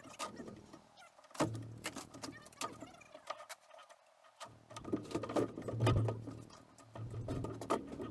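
Irregular scraping, knocking and clattering from demolition work, as a room's interior wood is pulled down and handled. There are busy stretches at the start, about a second and a half in, and from about four and a half seconds on, with a low hum in some of them.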